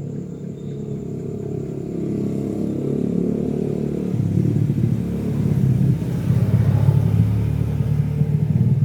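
Domestic cat purring close to the microphone, a rapid low rumble that grows steadily louder.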